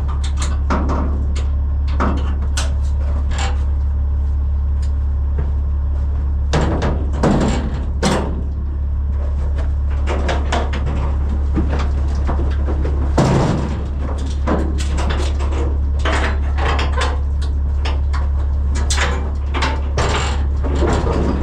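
Cattle moving in a livestock trailer: irregular knocks, thuds and clatters of hooves and bodies against the trailer's floor and sides, over a steady low hum.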